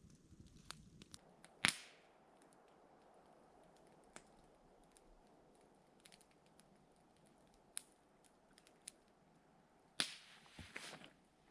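Two sharp snaps about eight seconds apart, the second followed by a few smaller clicks, over faint scattered ticks and a low steady hiss.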